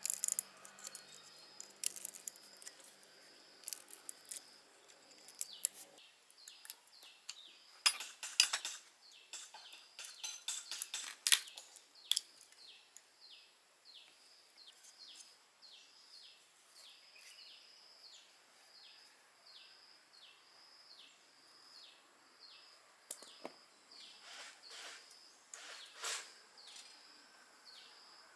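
A bird chirping over and over, short high chirps about one or two a second, with scattered sharp clicks and clinks of small metal parts being handled.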